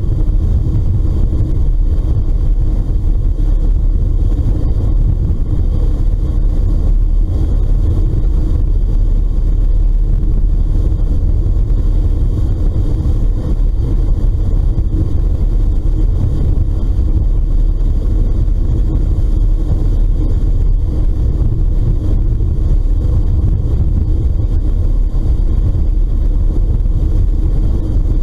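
Steady low rumble of a ferry underway, its engine and hull noise mixed with wind on the microphone.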